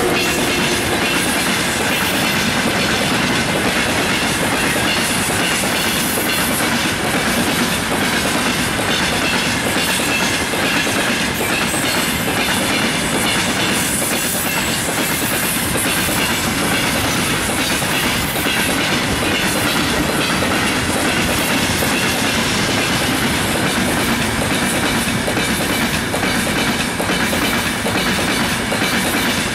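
Freight train wagons rolling steadily past at close range: continuous wheel-on-rail noise with repeated clicks as the wheels cross the rail joints.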